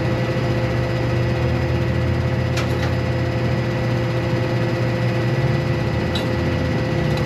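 A vehicle engine running at a steady pitch, a constant low hum, with a few light clicks about two and a half seconds in, near six seconds, and at the very end.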